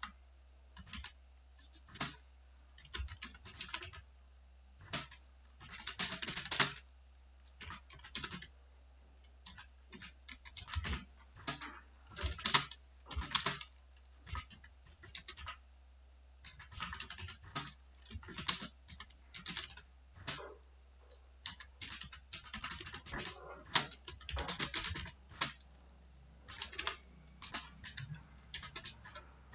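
Typing on a computer keyboard: irregular runs of key clicks with short pauses between words, and a steady low hum beneath.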